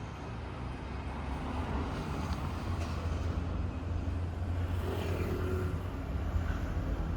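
Toyota Celica SS-II's 2ZZ-GE four-cylinder engine running steadily, a low hum that grows a little louder in the first couple of seconds.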